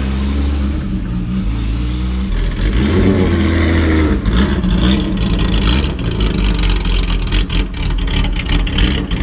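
Porsche 911 race car's flat-six engine driving off at low speed: a steady low idle at first, then the revs rise and fall about two to four seconds in as it pulls past. After that it runs loud and choppy.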